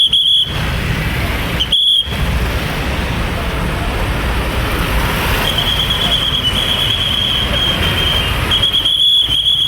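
Heavy road traffic with large trucks running past: a steady low engine rumble. A high, steady whistle tone comes and goes over it, briefly near the start and for most of the second half.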